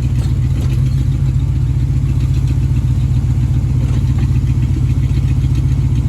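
Jeep CJ5's engine running steadily with an even, low exhaust rumble and no exhaust tick, the header leak sealed with extra gaskets.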